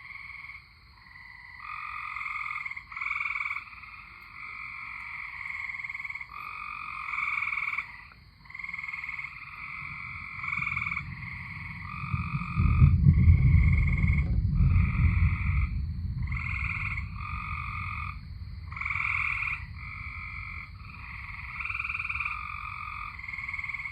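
A chorus of tree frogs calling in repeated, overlapping trills. About ten seconds in, a low rumble of thunder builds, is loudest a few seconds later and slowly dies away, a rumble heavy enough to shake the floor.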